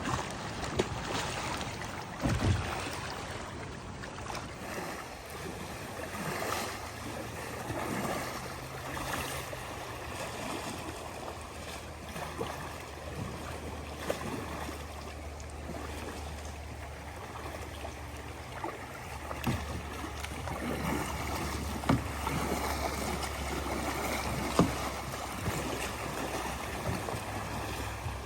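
Kayak paddling on a creek: water splashing and dripping from the paddle strokes, with a few sharp knocks scattered through it.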